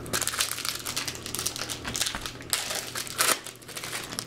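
Foil wrapper of a baseball card pack crinkling as it is handled and opened, a dense run of rapid crackles that stops about three and a half seconds in.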